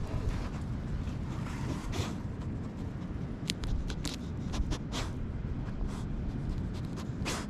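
Steady low rumbling noise on the microphone, with scattered short scrapes and rustles from movement during an outdoor walk, thickest around the middle, with one louder scrape near the end.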